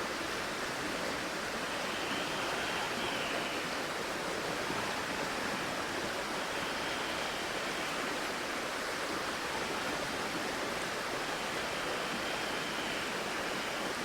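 A flowing river or stream rushing steadily.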